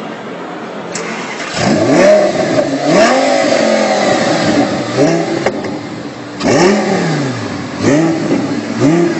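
Car engine being revved repeatedly in quick blips, about six times, the pitch climbing and falling with each rev.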